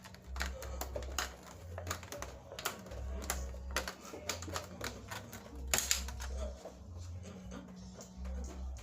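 A run of irregular sharp clicks and taps, loudest just before the middle, over intermittent low rumbling.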